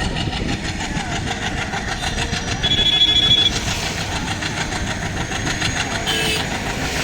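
Boat Mail Express passenger train running steadily, a continuous rumble of engine and wheels on rails. About three seconds in there is a brief high-pitched squeal.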